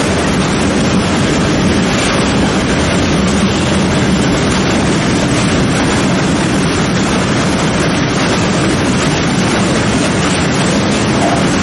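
Freight train of covered hopper wagons rolling past at close range: a loud, steady rumble of steel wheels on the rails.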